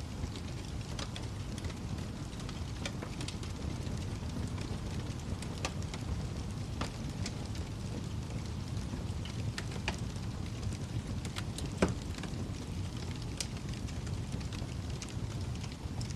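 Wood fire crackling in a fireplace: a steady low rush of flame with scattered sharp pops and snaps, the loudest pop about twelve seconds in.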